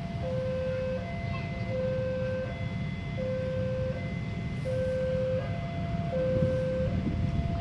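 Railway level-crossing warning alarm sounding its two-tone electronic signal, a higher and a lower tone alternating about every three-quarters of a second, the sign that a train is approaching and the crossing is closed. Under it runs a steady low rumble.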